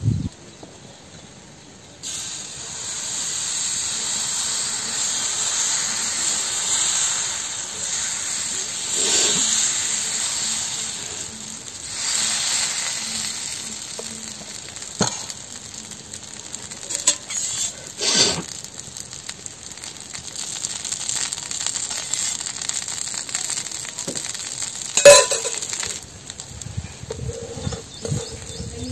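Dosa batter sizzling steadily on a hot flat griddle pan over a wood fire, starting about two seconds in. A few sharp clicks and clinks cut through it, the loudest a short ringing clink about 25 seconds in.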